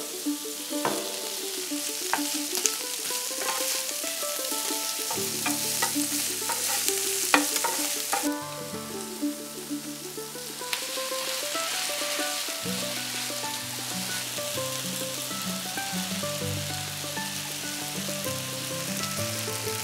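Bamboo shoots and fried tofu sizzling in oil on an electric hot plate, with a few light knocks of utensils and ingredients going in. The sizzle is strongest at first and drops sharply about eight seconds in, then carries on more softly under quiet background music.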